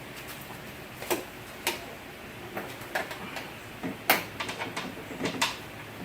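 Scattered light clicks and knocks of tools and metal parts being handled inside a car door, at irregular intervals, the sharpest about four seconds in.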